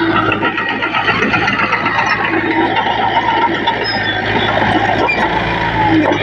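Diesel engine of heavy earthmoving machinery running steadily under work.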